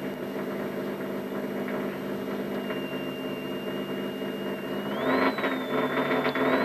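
Rally car's engine idling steadily, heard from inside the cabin while it waits at a stage start; about five seconds in the revs are raised a little and held higher.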